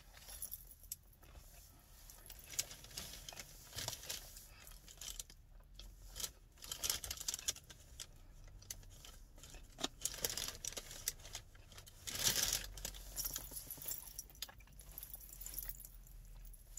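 A person chewing a big bite of breaded fried chicken sandwich on a soft brioche bun, with irregular small crunches and crackles from the breading and a louder crunch about twelve seconds in.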